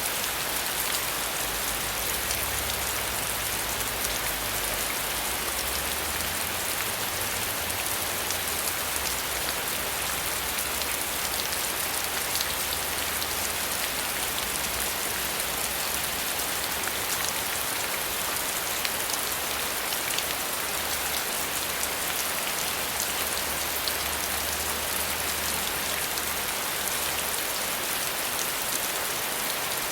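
Steady rainfall, a dense even hiss of drops with fine ticks of individual drops landing on a surface.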